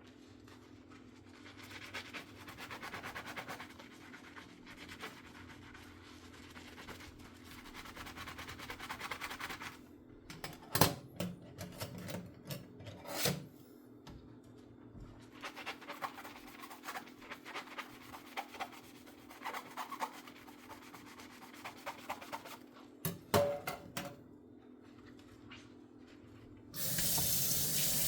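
Dishes being scrubbed by hand with a sponge: soft, uneven rubbing, with a few sharp clinks of dishware. Near the end the faucet is turned on and water runs steadily into the sink. A faint steady hum sits underneath.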